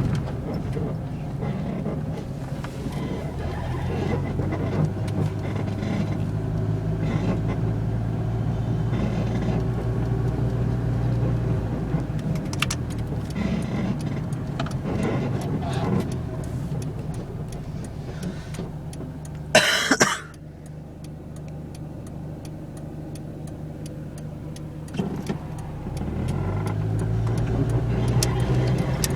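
1992 Honda Civic LX's four-cylinder engine running, its pitch rising and falling as the car is driven, easing off about two-thirds through. Just before it eases off there is one brief, loud burst of noise.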